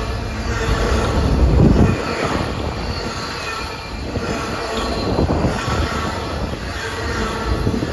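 Railroad cars rolling past on the track, with a steady rumble that swells louder a couple of times and faint thin squeals from the wheels.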